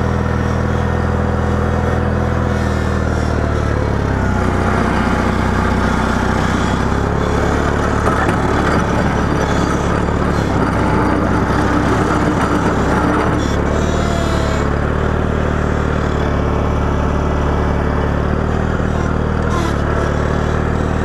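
Small tractor engine running steadily while plowing snow, its pitch shifting a little about four seconds in and again near two-thirds of the way through.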